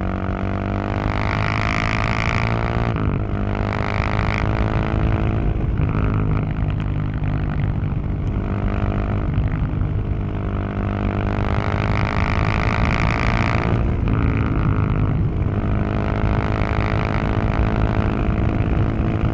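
Husqvarna 701 supermoto's single-cylinder engine heard through its exhaust while riding, its note rising and falling with the throttle. The pitch dips sharply about three seconds in and again near fourteen seconds.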